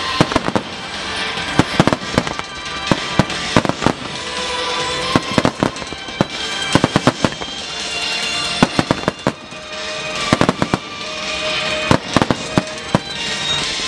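Aerial firework shells bursting in rapid volleys, many sharp bangs and crackles in quick clusters, with music playing underneath.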